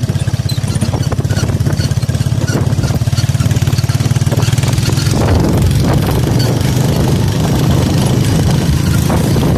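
Motorcycle engine running steadily while riding, a fast even pulsing hum; about halfway through the sound turns rougher and noisier.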